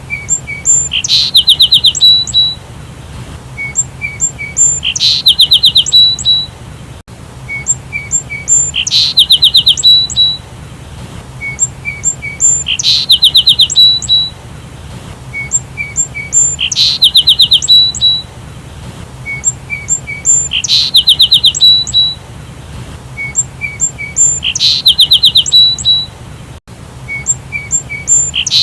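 Sparrow calling in a repeating phrase about every four seconds: a few soft chirps, then a loud, rapid run of about eight chirps.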